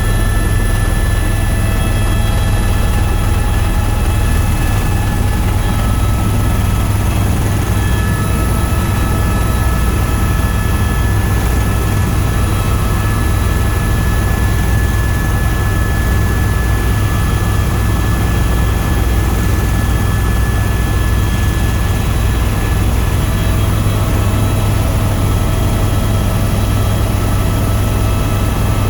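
Tour helicopter in steady flight, heard from aboard: a constant deep rotor and engine drone with a steady high whine over it.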